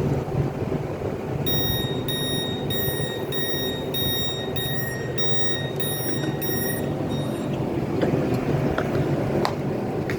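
Train door warning beeps on a Southeastern Class 395 high-speed train: about ten short, evenly spaced beeps, roughly one and a half a second, starting a second or so in and stopping about seven seconds in, over the steady hum of the train. A few sharp clicks follow near the end.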